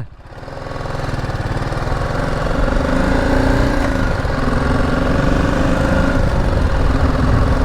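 BMW G 310 GS motorcycle's single-cylinder engine pulling away, its sound building over the first couple of seconds, then running steadily under way.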